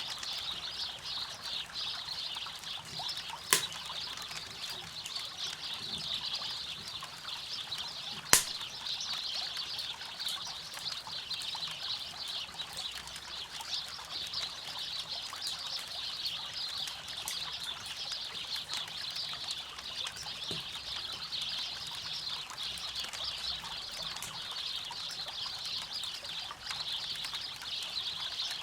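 A campfire crackling beside a flowing river. The water gives a steady high hiss, over which the fire ticks softly, with two sharp pops about three and a half and eight seconds in.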